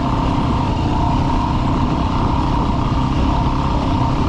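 Dirt bike engine running at a steady pitch while being ridden.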